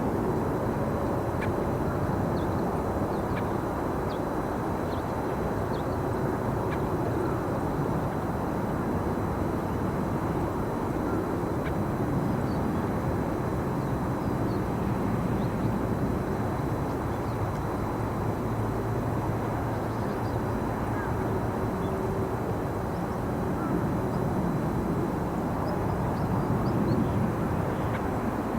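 Steady low outdoor background rumble, like distant traffic, with a few faint short high chirps scattered through it.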